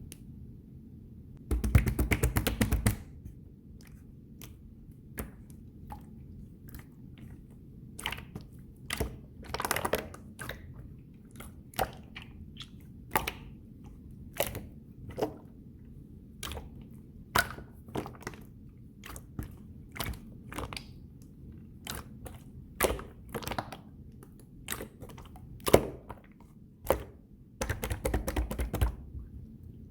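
Clear slime being pressed and stretched by hand, giving a string of sharp wet clicks and pops, with two runs of fast crackling, about two seconds in and near the end.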